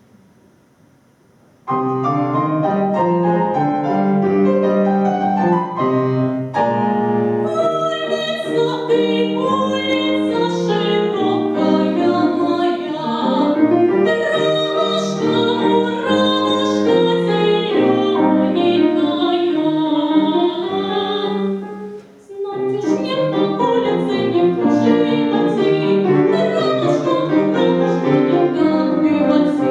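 Piano starts about two seconds in, playing a classical accompaniment in full chords for a vocal piece, with a short break about three-quarters of the way through.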